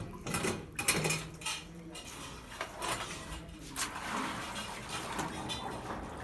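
Metal objects clinking and clattering, several sharp clinks in the first two seconds, over a steady background hum.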